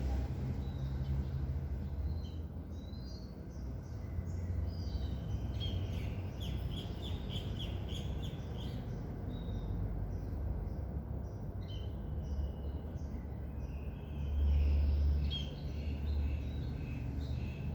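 Several birds chirping and calling, with a quick run of repeated notes, about three a second, in the middle. A steady low rumble runs underneath and swells briefly near the end.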